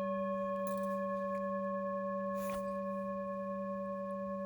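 Tibetan singing bowl ringing after a strike, a low hum with several higher overtones, sustaining and slowly fading with a gentle wobble.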